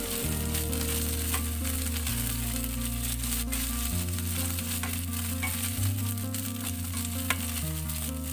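Green chili peppers and sliced garlic sizzling in a nonstick wok as a plastic spatula stirs them, with frequent small scrapes and taps. Background music with slow, steady bass notes plays under it.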